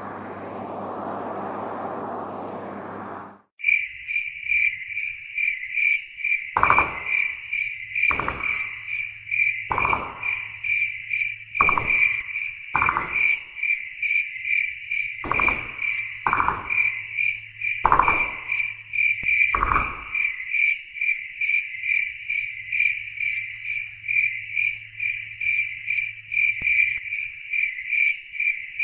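Airliner cabin drone that cuts off abruptly about three and a half seconds in. It gives way to a cricket chorus: a continuous, rapidly pulsing high chirping. Between about 6 and 20 seconds a lower call repeats nine times over it.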